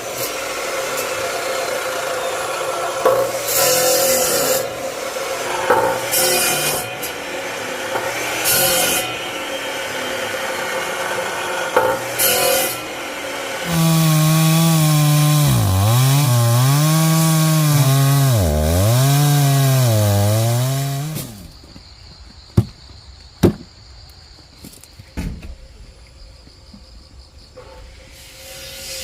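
Chainsaw cutting firewood, its engine pitch dropping and recovering several times as it bites into the wood, before it cuts off about 21 seconds in. A few sharp knocks of wood follow.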